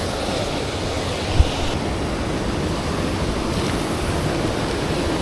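Steady rushing of flowing river water, with one short low thump about a second and a half in.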